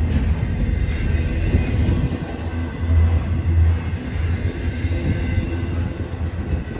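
Slow CN intermodal freight train rolling past, a steady low rumble of wheels and cars on the track that swells briefly about three seconds in.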